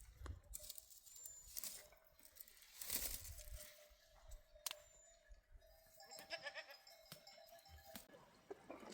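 Faint goat bleating, held and wavering, strongest in the second half, over scattered clicks, rustles and a crunching sound about three seconds in.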